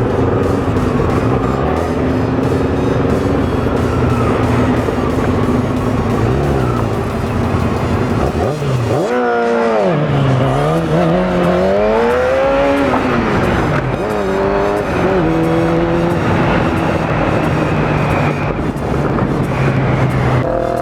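Sport motorcycle engine running under way, with wind noise. About nine seconds in, the revs drop sharply, then climb back over a few seconds before holding steady.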